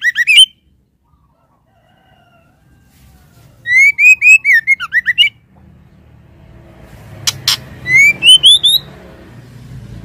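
Female white-rumped shama calling: three short bursts of quick rising and falling whistled notes, with two sharp clicking notes just before the last burst. A call used to lure a male. A low background rumble builds in the second half.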